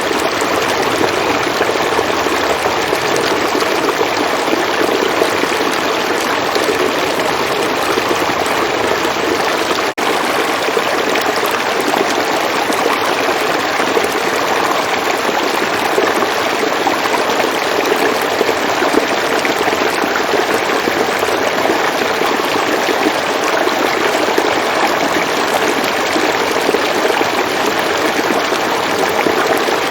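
River water flowing steadily, an even rushing of current. It dips for a moment about ten seconds in.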